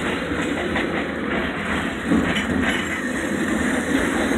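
Container train's intermodal cars rolling past: a steady noise of steel wheels running on the rails, with a few faint clicks.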